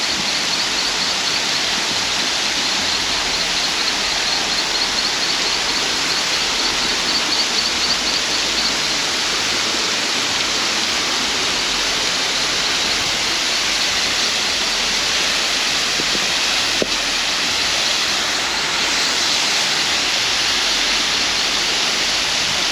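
Maracas Waterfall's falling water and spray, a loud, steady rushing hiss. A faint, high, rapidly repeated chirp runs over it for the first third.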